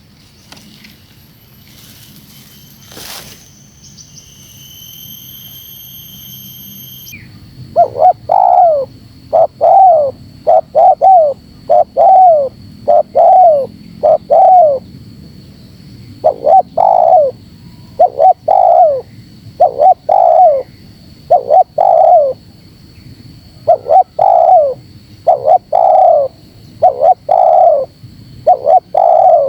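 Spotted dove cooing in rapid, tightly packed runs of two or three notes, starting about seven seconds in. This is the pressing 'menekan rapat' call style played as a lure to challenge and draw territorial wild doves. Before the coos there is a few seconds of a steady high tone.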